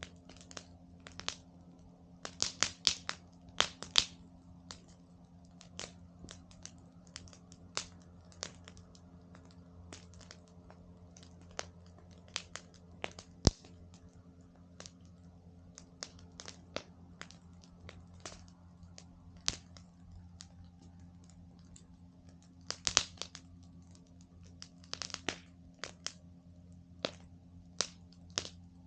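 Wood campfire crackling, with irregular sharp pops and snaps, in denser, louder clusters about two to four seconds in and again near the end.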